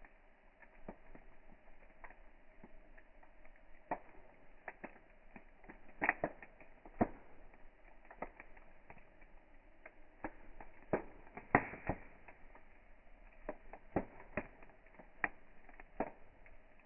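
Wood campfire crackling, with irregular sharp pops and snaps over a faint hiss; louder pops come about six seconds in and again around eleven to twelve seconds.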